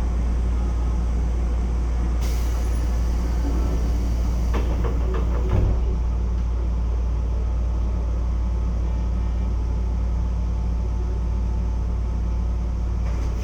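Keisei 3400-series electric train running at speed, heard from inside the car: a steady rumble of wheels and running gear, with a short run of clacks from the rail joints about five seconds in.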